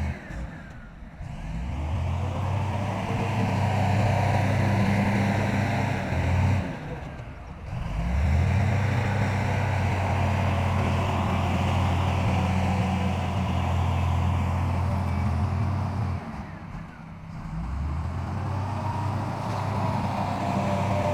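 Heavy diesel construction-machine engine running at a steady drone. The sound drops away sharply and returns three times: about a second in, near the middle, and toward the end.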